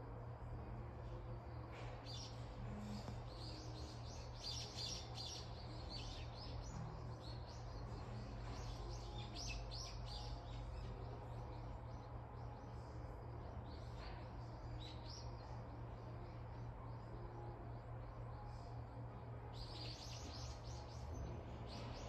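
Quiet café ambience: a steady low hum under clusters of short, high chirping sounds that come and go, busiest from about four to ten seconds in and again near the end.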